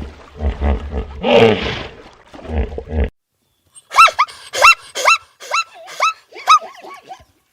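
Two animal recordings in turn: first a low, pulsing growl or roar that cuts off abruptly about three seconds in, then, after a short gap, a run of about six short high calls, each rising and falling in pitch.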